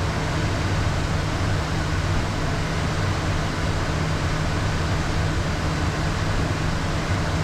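Steady in-flight cockpit noise of a Beechcraft Premier 1A business jet: an even rush of air with a low hum underneath.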